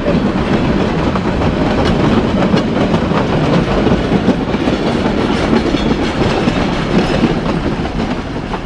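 A train rolling past close by, its wheels clattering over the rail joints in a continuous loud rumble that eases off slightly near the end.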